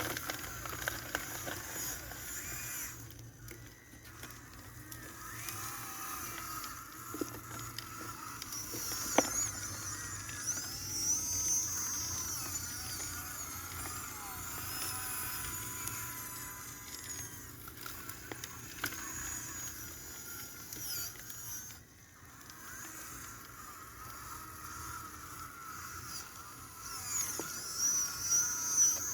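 Small electric motors and plastic gearing of a radio-controlled model excavator and homemade trommel whining, the pitch rising and falling as the load changes, with a few sharp clicks.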